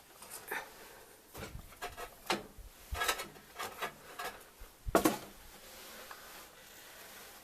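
Irregular knocks, clicks and short scrapes of someone moving about and handling things, the loudest a sharp knock about five seconds in.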